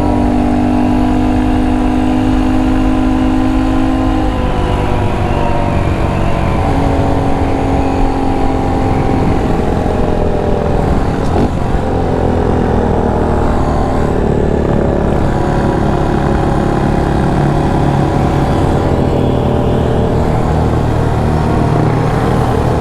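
2019 Honda Monkey 125's single-cylinder engine running at a steady cruising speed of about 55 mph, its note shifting a little in pitch a few times, over a constant low rumble.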